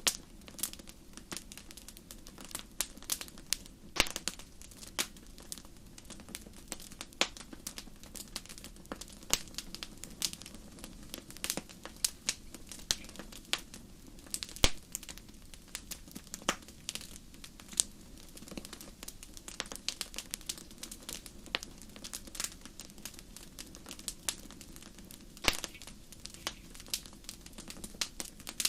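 Wood fire crackling: irregular sharp snaps over a low, steady rush of flame, with a few louder pops scattered through.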